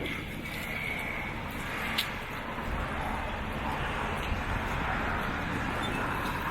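Steady rumble and hiss of riding a bicycle, with wind and tyre noise on the camera's microphone, and a sharp click about two seconds in.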